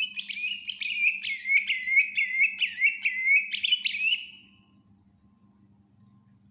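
Green leafbird (cucak ijo) singing a fast, loud song of repeated sharp whistled notes, about two or three a second, stopping about four seconds in.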